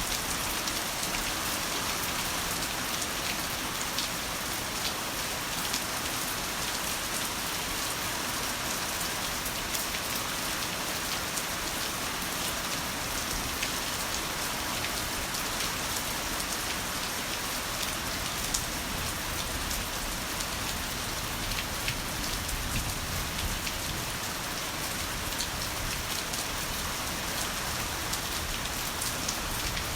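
Heavy rain falling steadily, a dense hiss of countless drops with individual drop ticks throughout. A faint low rumble comes in about two-thirds of the way through.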